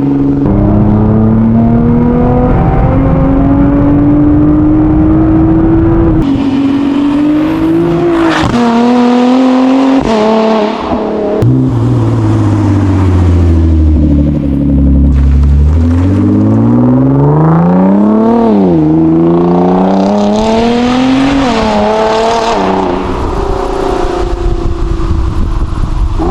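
Nissan GT-R's twin-turbo V6, tuned to Stage 5, running loud through its exhaust with the revs rising and falling several times. The revs climb slowly at first, then drop to a low, steady note about halfway through. Two quick, sharp rev rises and falls follow.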